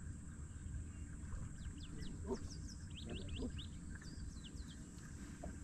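Birds calling: a quick series of short, high, down-slurred chirps, with a few lower calls mixed in about two and three seconds in, over a steady low rumble.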